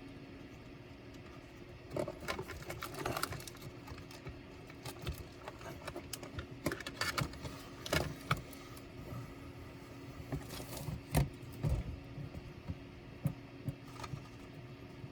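Scattered clicks, taps and small rattles of laptop parts, screws and tools being handled during disassembly, over a steady low hum.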